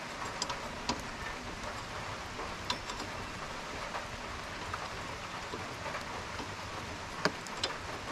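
Steady rain falling on a roof, with scattered light ticks and one sharper click about seven seconds in.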